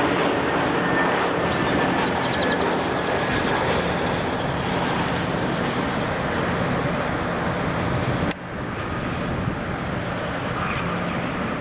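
Airplane engines running as a steady loud noise, with an abrupt cut about eight seconds in to a slightly quieter stretch of similar engine noise.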